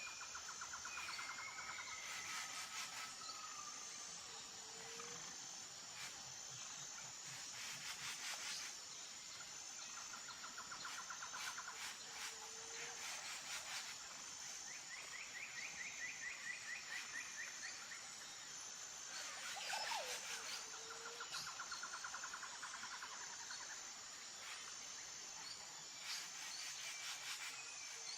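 Outdoor nature ambience: a steady high-pitched chorus of insects, likely crickets, with birds singing repeated short trills on and off and a few low chirps.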